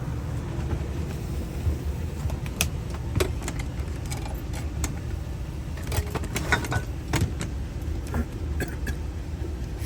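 Light metallic clicks and taps from handling a car trunk lock cylinder and tools, scattered and thickest past the middle, over a steady low rumble.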